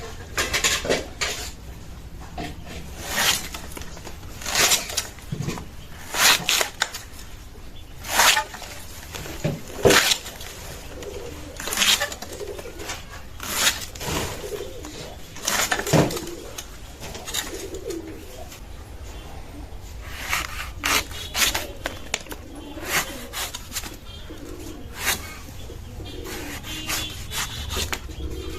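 A blade cutting and scraping palm fruit in short, sharp strokes, one every one to two seconds, while a bird coos in the background.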